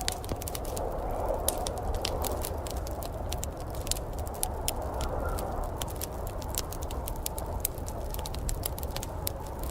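Wood fire crackling, with frequent sharp pops and snaps over a steady low rumble and hiss.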